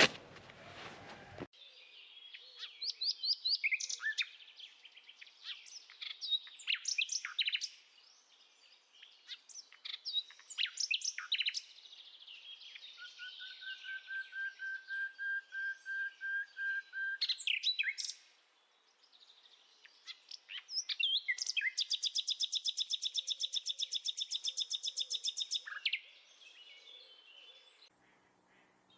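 Songbirds singing: a string of varied chirps and whistles, a long even trill about halfway through, and a fast, rapidly repeated trill later on.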